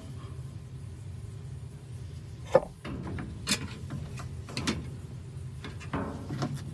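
Several knocks and clunks of washing machine parts being handled and fitted together, the loudest about two and a half seconds in, over a steady low hum.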